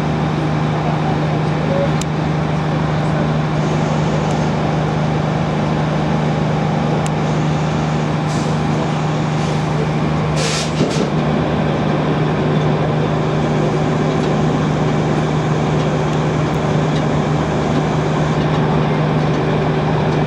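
Steady low drone of the river tour boat's engine running at a constant speed, with a short high hiss about halfway through.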